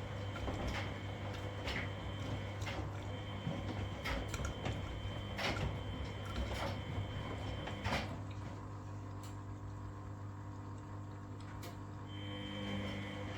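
Front-loading washing machine running a wash cycle: a steady motor hum with sharp knocks about once a second, which stop about eight seconds in and leave only the hum.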